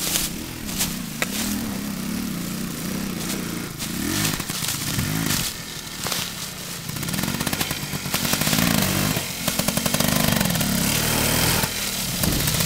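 Off-road trail motorcycle engine revving under riding load, its pitch repeatedly rising and falling, loudest in the last few seconds.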